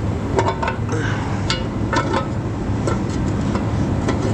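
Metal clinks and taps as a valve cover is worked into place on a diesel engine, over a steady low hum.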